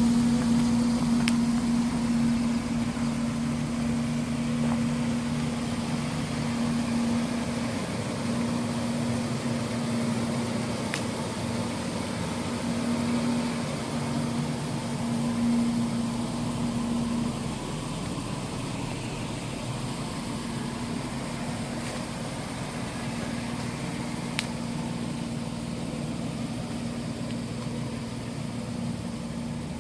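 Ford Ranger's 4.0-litre SOHC V6 idling steadily through a new exhaust and muffler, with a constant hum that eases slightly past halfway. A few faint clicks.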